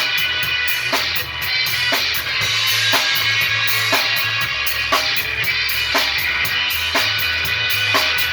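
Rock music with no vocals. A drum kit keeps a steady beat, with a snare hit about once a second over fast hi-hat strokes, under a moving bass line and sustained instrumental tones.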